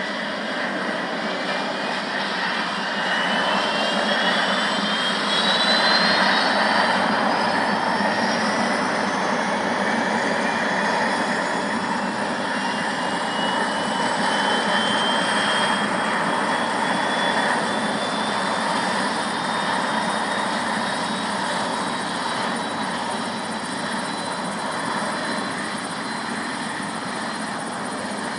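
Helicopter running close by: a steady rush of engine and rotor noise with a thin whine that rises in pitch over the first several seconds and then holds.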